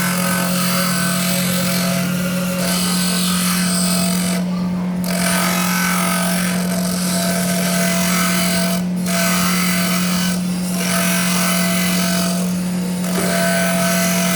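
Power sander grinding a metal part, the grinding breaking off briefly four times as the piece is lifted and set back against the sander.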